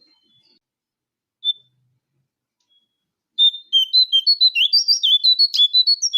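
Song of a jongkangan coklat, a small songbird, as used in a bird-lure recording: a single short chirp, then about three and a half seconds in a quick, loud run of varied high whistled notes, about four a second.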